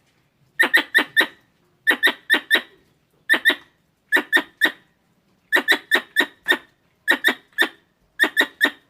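Squirrel chirping calls: short, sharp chirps in quick runs of three or four, each run repeating about every second, of the kind played to lure squirrels.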